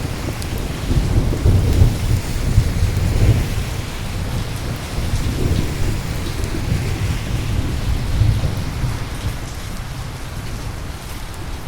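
Thunder rumbling under steady rain. The rumble swells loudest about one to three seconds in, rises again near eight seconds, and then fades, with the rain's hiss going on throughout.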